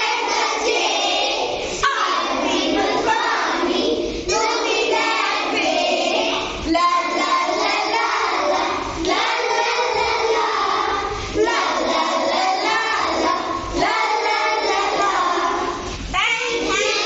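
A group of children reciting a poem together in a sing-song chorus, their voices continuous and loud.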